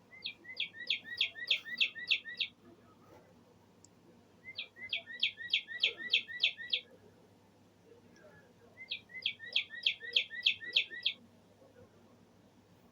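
A bird clock's speaker playing a recorded bird song: three bouts of quickly repeated high notes, about five a second. Each bout lasts about two seconds, and the bouts come roughly four seconds apart.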